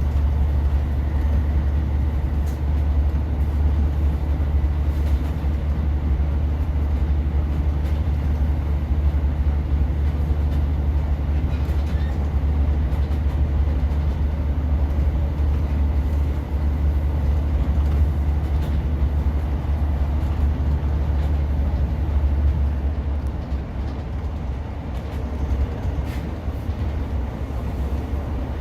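Class 150 diesel multiple unit running along the line, heard from inside the carriage: a steady low engine drone and rumble with a few faint clicks, easing slightly near the end.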